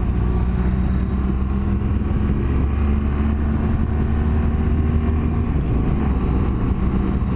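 Motorcycle engine running at a steady pitch, with road and wind noise.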